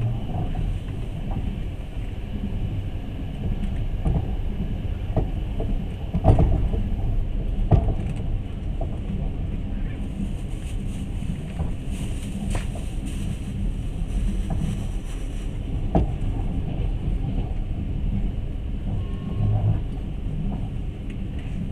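Passenger train running on the rails, heard from inside the carriage: a steady low rumble with a few sharp knocks from the wheels and carriage.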